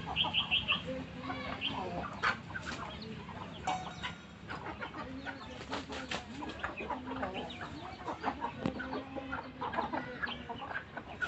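Aseel chickens clucking: many short, overlapping calls, with a quick run of high chirps in the first second and scattered sharp clicks.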